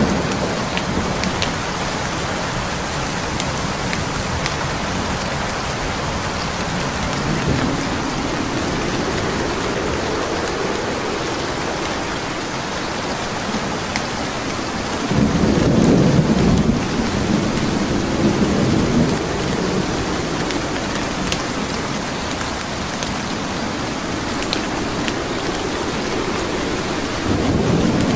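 Steady rain with the sharp crackles and pops of burning wood logs in a fireplace scattered through it. A low rumble of thunder swells up about halfway through and rolls on for a few seconds, with another starting near the end.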